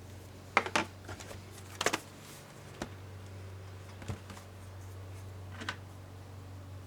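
Scattered clicks and light knocks from a laptop being handled on a work surface: two quick pairs, then a few single taps. Under them runs a steady low hum.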